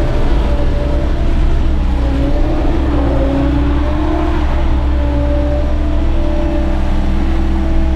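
Bobcat skid steer's diesel engine running steadily at working revs, with a whine that wavers up and down in pitch as the machine works. It drops away abruptly near the end.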